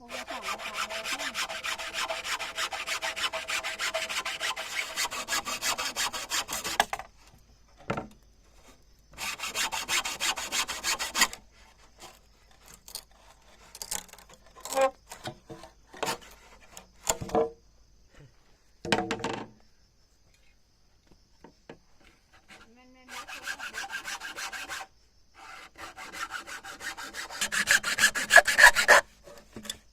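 Wood being sawn in three long bouts of rapid rasping strokes, with scattered short knocks and clatters in between.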